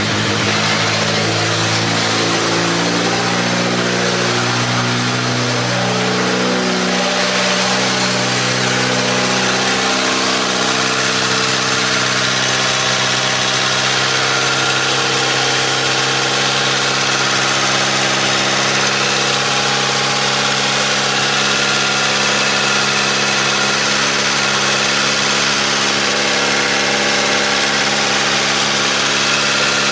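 Toyota 4E-FE 1.3-litre four-cylinder engine idling just after a start-up, its speed shifting up and down over the first ten seconds or so before settling to a steady idle. It is running after a repair for a knocking bottom end, with no knock that the owner remarks on: he calls the knock beaten.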